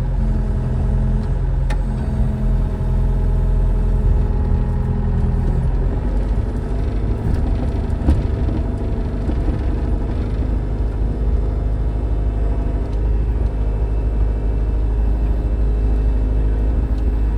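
Tractor engine running steadily under a loader, its note changing about six seconds in.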